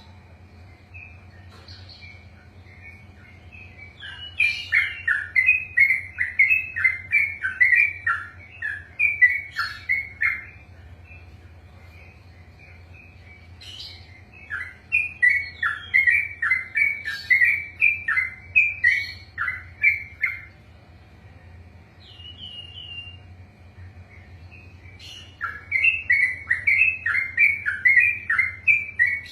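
Sooty-headed bulbul (trucukan) singing three long runs of quick, repeated falling notes, each run lasting several seconds, with short pauses between them.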